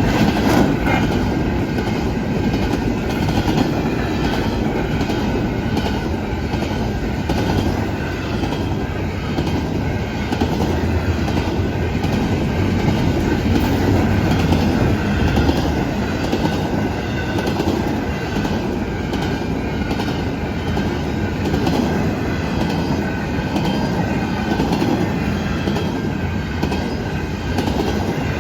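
A Norfolk Southern intermodal freight train's cars rolling past at a steady pace: a continuous rumble of wheels on rails, with repeated clicks and clatter from the wheels throughout.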